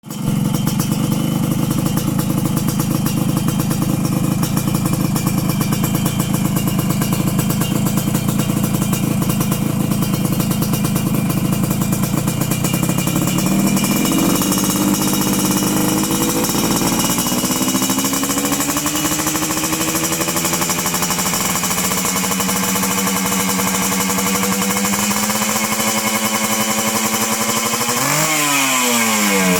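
Yamaha RX-King two-stroke single-cylinder engine running through a Thailand-style racing exhaust. It idles steadily, then climbs to a higher speed about halfway through and holds there, with a quick throttle blip near the end.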